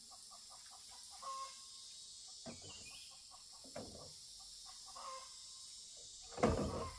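Chickens clucking in short calls over a steady high hiss, with a louder thump about six and a half seconds in.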